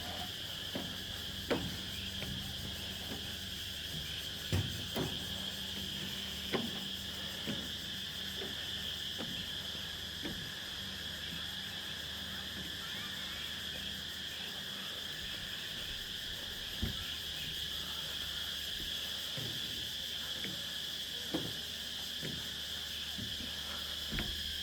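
Chorus of calling insects at dusk: a steady, unbroken shrill drone, with a few soft knocks now and then.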